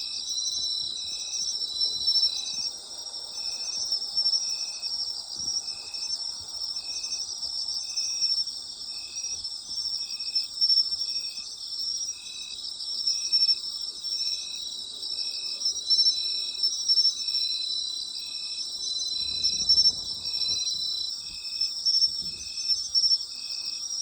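Chorus of autumn night insects: several high, continuous trills overlapping, with one insect giving a short chirp at a steady rhythm of about once a second.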